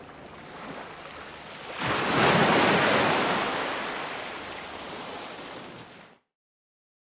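Ocean waves breaking: a soft wash, then one wave crashes loudly about two seconds in and slowly washes out. Near the end the sound cuts off abruptly into dead silence.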